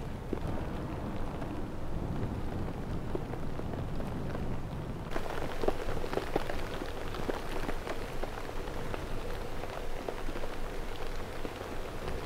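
Snowstorm weather noise: a steady low wind rumble with wind-driven snow or ice ticking against a surface. About five seconds in the hiss turns brighter and the ticks grow denser.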